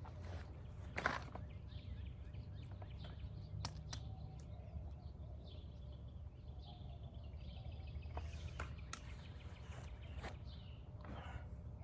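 Outdoor background noise with a steady low rumble, faint bird chirps, and a few sharp clicks, the loudest about a second in.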